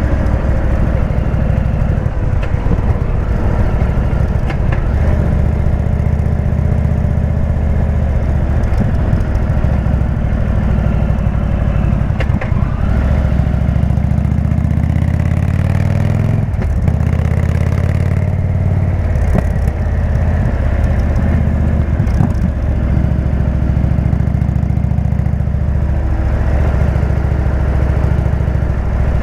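Indian V-twin motorcycle with a Jekill & Hyde exhaust, heard on the move: a steady low exhaust note that drops about halfway through as the bike slows, then climbs again as it accelerates.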